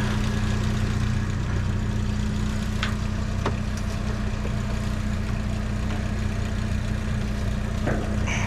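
Vehicle engine idling steadily with an even low hum, with a couple of faint ticks about three seconds in.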